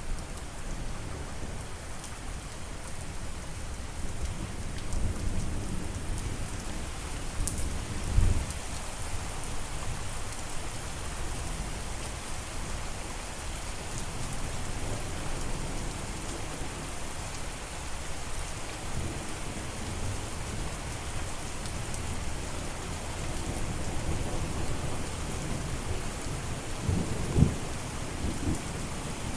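Steady rain falling, with low rumbles of thunder; the strongest swells come about eight seconds in and again near the end.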